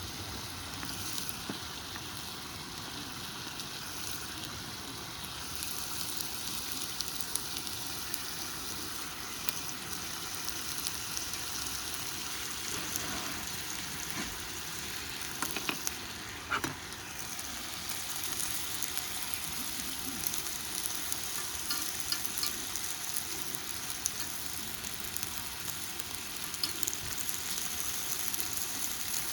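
Chicken neck meat (seseri) and garlic sizzling as they stir-fry in a pan, a steady hiss with scattered crackling pops and a few sharper clicks around the middle.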